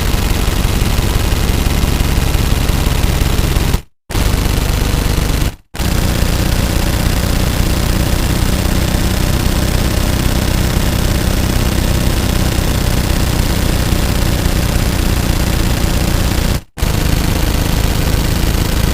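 Loud, continuous rapid mechanical rattling, broken by three brief silences: about four seconds in, just before six seconds, and near the end.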